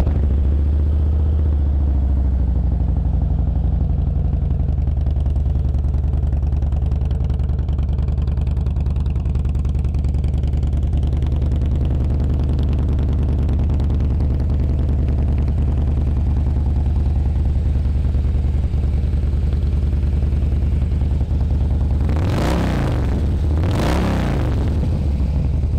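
2012 Harley-Davidson Softail Deluxe's 103-cubic-inch fuel-injected Twin Cam V-twin idling steadily through aftermarket slip-on mufflers that are louder than stock. Near the end it is blipped twice, each rev rising and falling back to idle.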